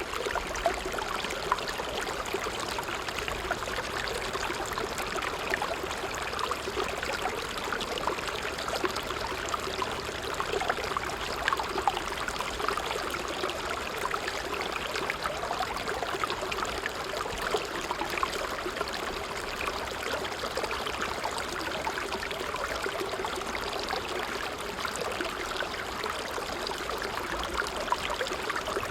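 Small creek flowing and babbling steadily over stones, a continuous trickling and gurgling of running water.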